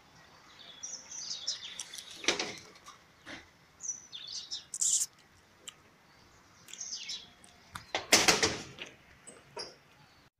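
Small birds chirping: short high calls and quick whistles come and go. A louder rustling burst with no clear pitch comes about eight seconds in, and a fainter one a couple of seconds in.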